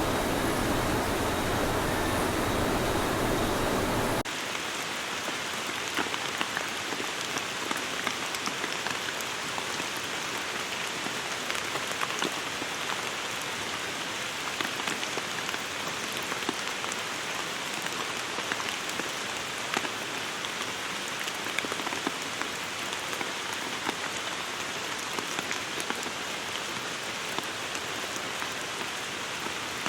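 Steady rain falling, with many fine drop ticks. For about the first four seconds a louder, deeper rushing noise plays instead, and it cuts off abruptly into the rain.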